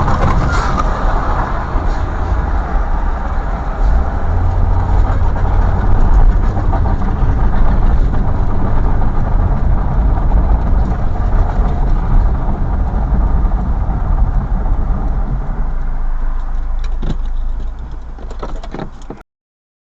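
Steady rumble of a car driving, heard through a dashcam microphone, with a few faint clicks near the end before it cuts off abruptly.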